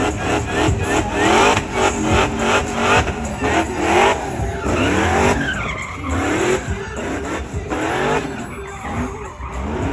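Car engine revving hard, its pitch climbing again and again several times a second.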